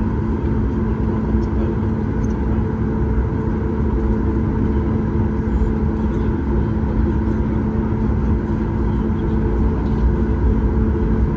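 Steady cabin noise of a Boeing 737 MAX 8 taxiing: a continuous low rumble from the wheels rolling and the CFM LEAP-1B engines at taxi power, with a steady hum underneath.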